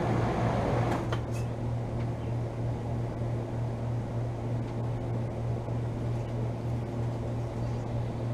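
Outdoor condensing unit of a 2012 Bryant Legacy central air conditioner running with a steady hum from its compressor and condenser fan, with a faint click about a second in.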